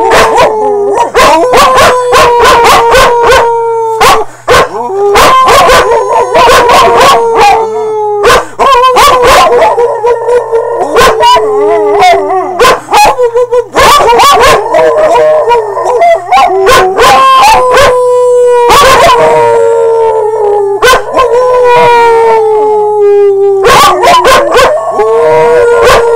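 Two dogs howling together in long, slowly falling tones, again and again, broken by frequent yips and barks.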